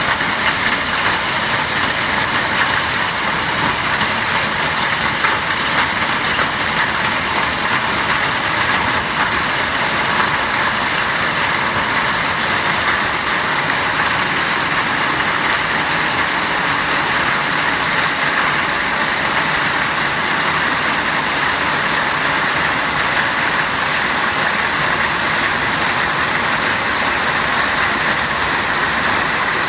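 Hail and heavy rain pelting down steadily, a dense, unbroken patter of many small impacts.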